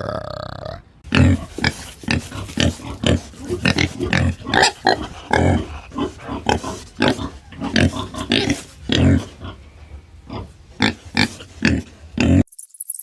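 An animal grunting in a long string of short, irregular grunts, two or three a second, after a drawn-out call in the first second. The grunting cuts off abruptly near the end.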